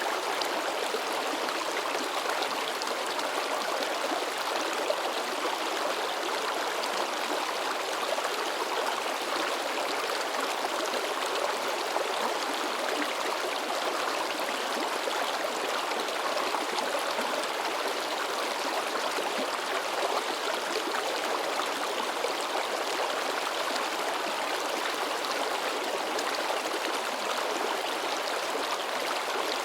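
A shallow mountain river babbling and splashing over rocks in a steady rush, with no pauses or changes.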